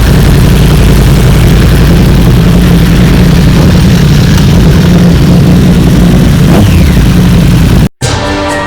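Motorcycle engines running steadily at a constant, loud pitch with a hiss over it. It cuts off abruptly near the end and music starts.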